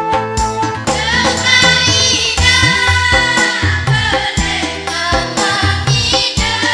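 Choir singing with instrumental accompaniment and a regular low beat; the voices come in about a second in over the sustained instrumental chords.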